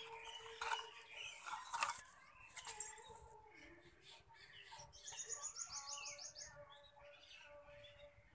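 Birds chirping and calling, with a quick run of short high notes about five seconds in. Short rustles and clicks come in the first three seconds.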